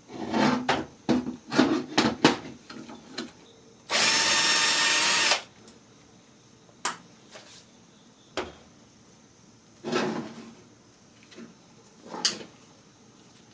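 A power drill running steadily for about a second and a half, about four seconds in. Before it come irregular knocks and clatter of parts being handled, and after it a few scattered clicks.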